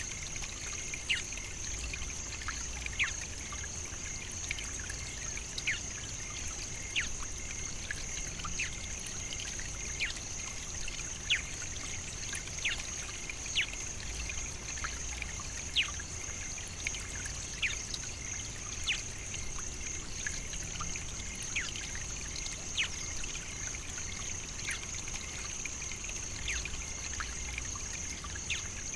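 Savannah ambience: a steady high-pitched insect drone, with short falling chirps repeating every second or two.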